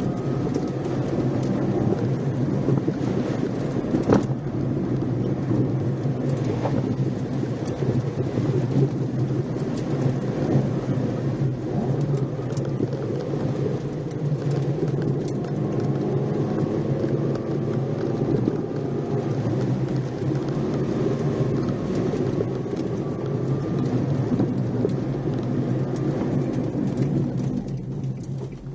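Nissan March 12SR's engine heard from inside the car while driving, its pitch slowly rising and falling with the revs over a steady rumble of tyre and road noise. A single sharp knock about four seconds in, and the sound eases off near the end.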